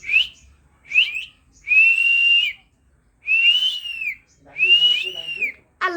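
Pet talking bird whistling: two short whistles, then three longer notes of about a second each that rise and fall in pitch.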